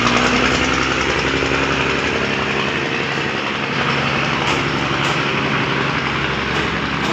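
Diesel railcar train passing close by as it pulls out of the station: its underfloor diesel engines run steadily, with the rumble and hiss of wheels on the rails and a few faint clicks over the rail joints. The last car goes by near the end.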